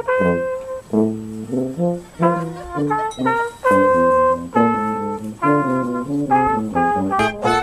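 A brass instrument playing a tune for cows, a melody of separate held notes.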